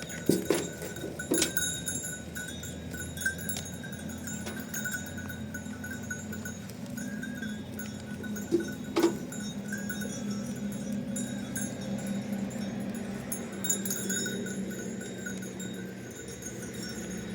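Livestock bells ringing and clanking on and off, with a few sharp knocks near the start and about nine seconds in, over a low steady hum.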